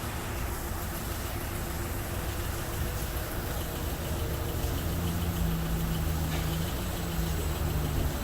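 Belanger FreeStyler automatic car wash running mid-cycle: a steady hiss of spray over a low machine hum. A steady low motor tone joins in about five seconds in.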